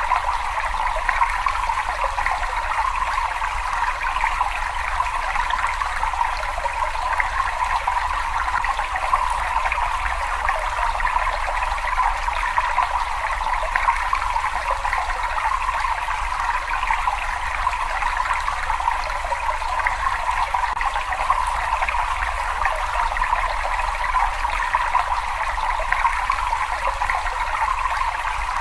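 Water running and trickling steadily in a cave: an even, unbroken rush.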